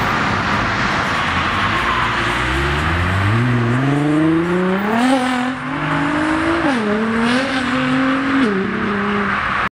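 Nissan GT-R's twin-turbo V6 accelerating hard away, its note climbing steadily from about two and a half seconds in. It then steps down and climbs again with upshifts around five and seven seconds in, and drops once more near the end.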